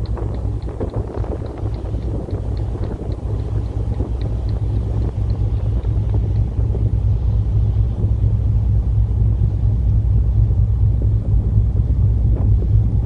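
Wind buffeting the microphone over the steady low rumble of the Sea Paseo 2 cruise ferry under way, growing gradually louder.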